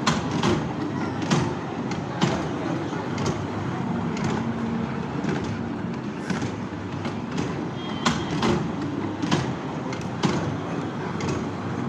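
A moving train, heard from aboard: a steady rumble with sharp clacks and knocks at irregular intervals from the wheels and carriage.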